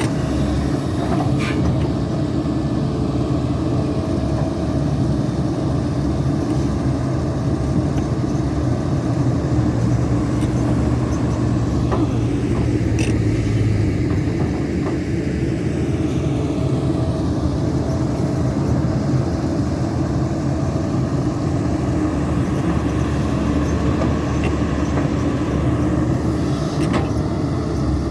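Caterpillar 320D2 hydraulic excavator's diesel engine running steadily under load while digging, with a few sharp knocks along the way.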